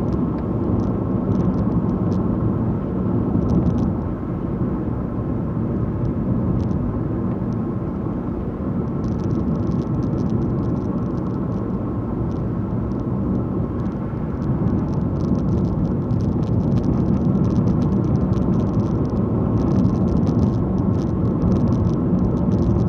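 A car driving along, with steady engine and tyre road noise and faint light ticks and rattles coming and going.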